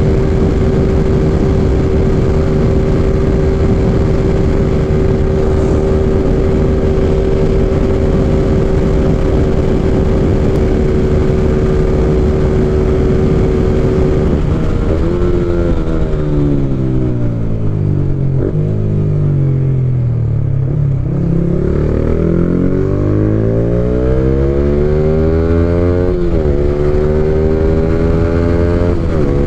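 Yamaha Y15ZR single-cylinder four-stroke motorcycle engine heard from the rider's seat, holding steady high revs at cruising speed, then the revs fall away as the throttle is eased about halfway through and climb again, with a sudden step in pitch near the end as it changes gear. Wind rushes over the microphone throughout.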